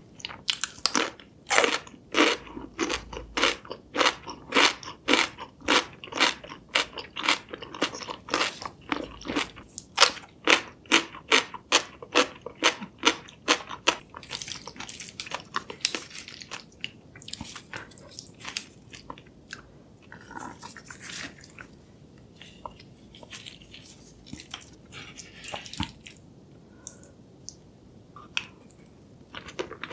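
Close-miked crisp crunching as a cucumber slice is bitten and chewed, about two sharp crunches a second, for roughly the first half. The crunching then gives way to quieter, softer, sparser chewing.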